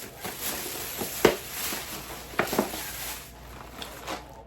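Groceries being handled and set down on a counter: rustling with a few sharp knocks, the loudest about a second in and two close together past the middle.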